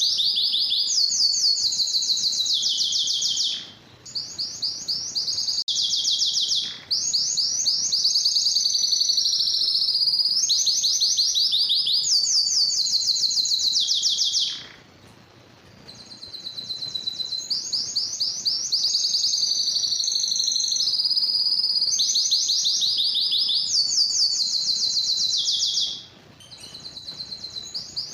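Domestic canary singing a long song made of rapid trills, each phrase a fast run of repeated high notes, the pitch shifting from one phrase to the next. The song breaks off briefly about four seconds in, again around the middle for about a second, and once more near the end.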